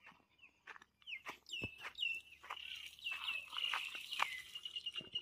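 A small bird calling: a run of short, high, downward-sliding chirps from about a second in, turning into a fast high trill near the end, with scattered light ticks and crunches underneath.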